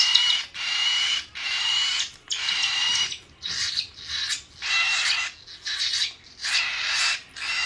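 Parrot chicks' raspy begging calls while being hand-fed, in repeated short bursts of about half a second, roughly one a second.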